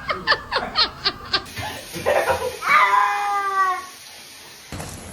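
A cat giving one long, drawn-out meow that falls slightly in pitch, about two and a half seconds in, as it protests being bathed. It is preceded by a quick run of short, rapid bursts of sound.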